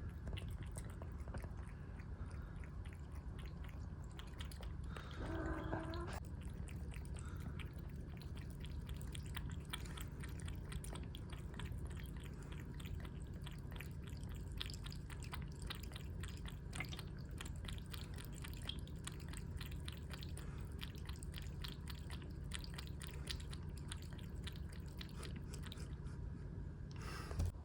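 A cat lapping water: a long run of small wet clicks, about three or four a second, with one short meow about five seconds in.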